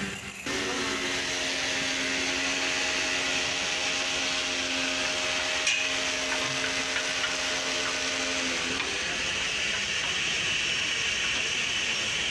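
Electric motor running steadily with a loud hiss. A steady hum in it stops about eight and a half seconds in, while the hiss carries on.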